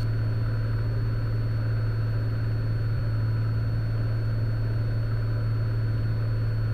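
Cessna Skylane's single piston engine and propeller droning steadily in the cockpit during descent, with a constant low hum and no change in pitch.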